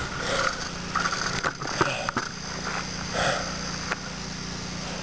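A cyclist breathing hard while riding: a few irregular puffs of breath over a steady low hum of riding noise.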